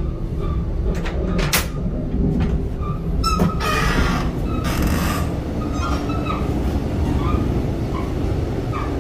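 Passenger train running, a steady rumble heard from inside the carriage. There is a sharp click about one and a half seconds in, and a short hiss with clicks from about three and a half to five seconds in.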